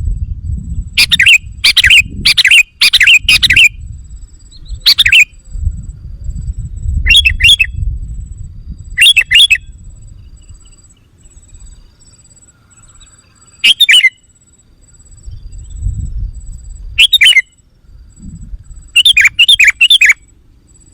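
Sooty-headed bulbul (kutilang) calling in loud, short bursts of bright chattering whistles, about ten clusters with pauses between them; a bulbul lure call. A low rumble comes and goes underneath.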